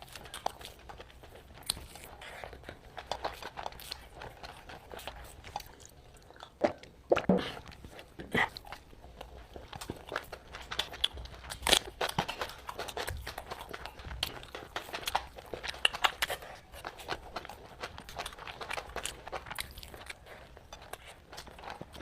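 Close-miked eating: a person biting and chewing food, with irregular crunches and short clicks throughout.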